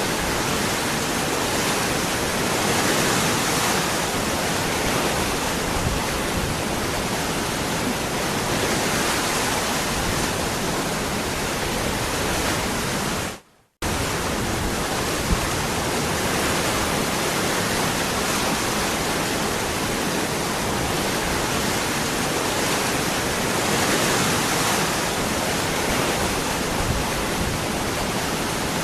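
Waterfall rushing steadily. About halfway through, the sound fades out into a short gap of near silence and then cuts back in abruptly.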